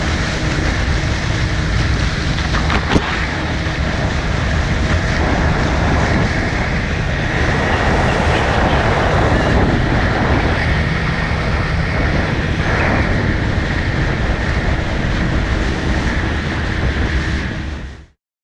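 The restored 1956 Lyman boat's engine running steadily under a rushing noise of wind and water, the sound cutting off abruptly near the end.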